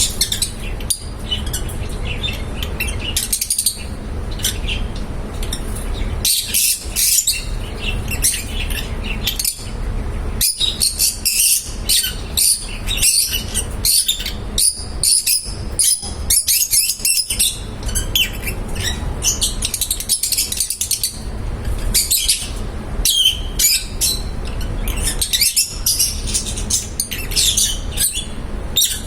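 Lovebirds chirping: many short, high chirps in quick succession, over a steady low rumble.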